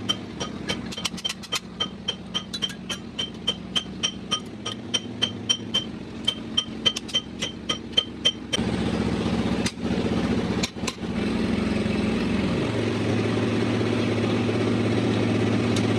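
Hammer striking metal in a steady rhythm, about three ringing blows a second, over a low engine hum. About eight and a half seconds in the hammering stops and a louder engine runs steadily, its pitch dropping a little around twelve seconds in.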